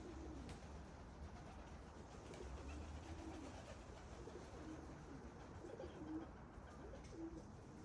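Pigeons cooing softly, several short low coos scattered through the few seconds, over a faint low rumble.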